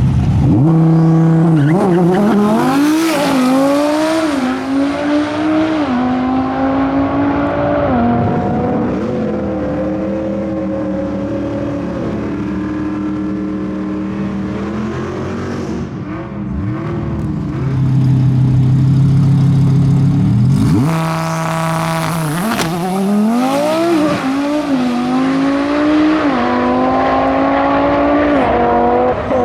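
Twin-turbo Audi R8 V10 at full throttle on a drag strip, its revs climbing and snapping down through a string of quick gear shifts. Later it holds at a steady rev for a few seconds, then launches and pulls up through the gears again.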